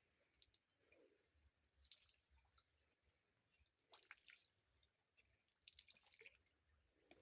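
Near silence, with faint scattered drips and small splashes of water from clothes being hand-washed in a river.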